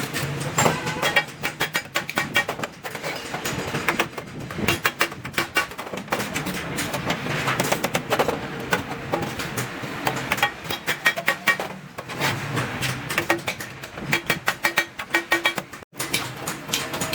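Rapid, irregular hammer strikes on stainless steel sheet, several a second, with the metal ringing briefly after many blows.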